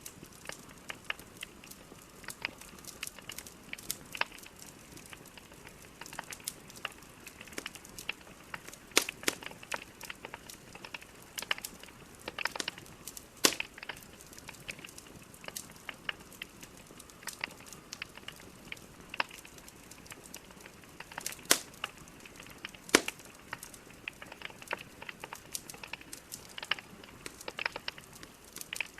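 Wood fire burning in a fireplace: logs crackling with frequent small irregular pops over a faint hiss, and a few louder snaps now and then.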